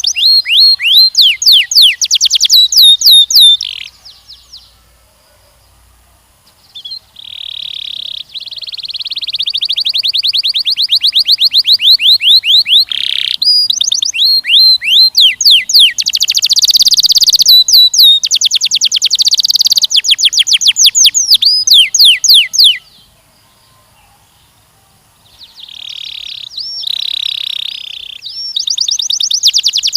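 Canary singing: long phrases of fast trills and rolls of repeated sweeping high notes, broken by two pauses of about two seconds, one a few seconds in and one near the end.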